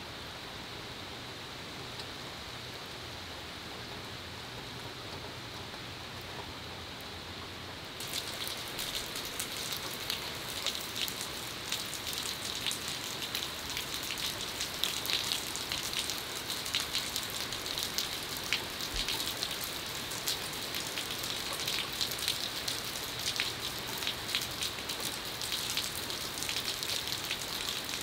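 Heavy thunderstorm rain falling on wet concrete paving, a steady hiss. About eight seconds in it turns louder, with a dense patter of close drops splashing.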